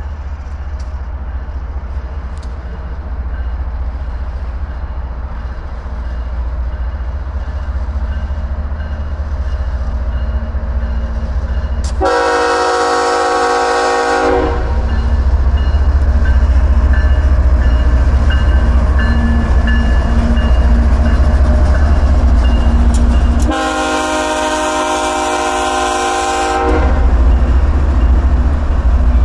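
BNSF freight train's diesel locomotives approaching and passing, their deep engine rumble building as they near. The locomotive's air horn sounds two long blasts of several notes at once, one about twelve seconds in and another about twenty-three seconds in.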